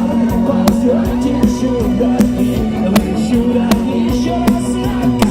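Rock band playing live: sustained chords and a melodic line over a steady drum beat, with a hit about every three-quarters of a second.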